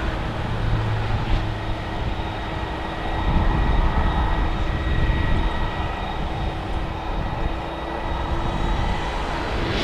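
Jet airliner engines running, with a steady whine over a low rumble.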